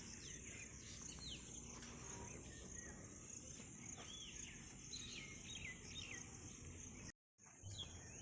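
Faint rural outdoor ambience: insects droning steadily at a high pitch while birds give short, downward-sweeping chirps. The sound cuts out for a moment about seven seconds in.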